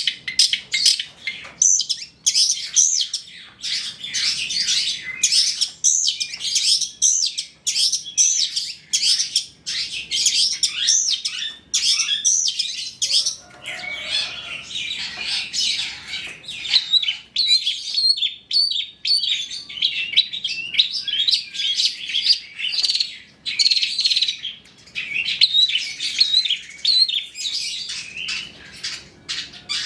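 Long-tailed shrike (cendet) singing an unbroken stream of rapid high chirps, squeaks and short trills, packed with mimicked phrases of other birds.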